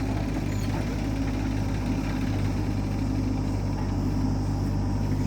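Heavy diesel engine running steadily at a constant speed, an even low hum with no revving or changes in pitch.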